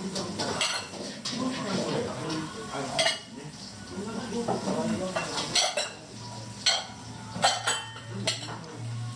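Dishes and utensils clinking and knocking in irregular sharp clicks, over a busy background. A low steady hum sets in about six seconds in.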